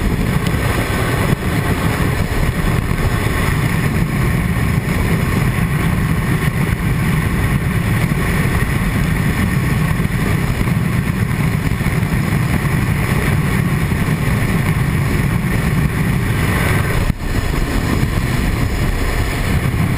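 Steady wind noise and buffeting heard inside a motorcycle rider's helmet at road speed on a Triumph Tiger 800XC, with the bike's adjustable screen laid back, which the rider finds almost a bit better.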